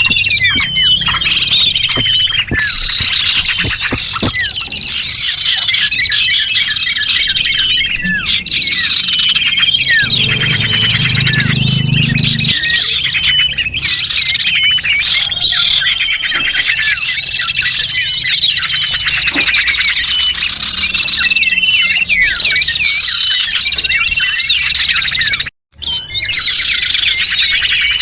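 Bird-lure recording of many small songbirds chirping and twittering at once: dense, overlapping high calls with short whistled notes. It cuts out for a split second near the end.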